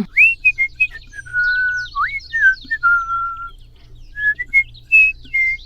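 A string of high, bird-like whistled chirps, some sliding quickly upward and others held on one steady note, with a faint low hum underneath.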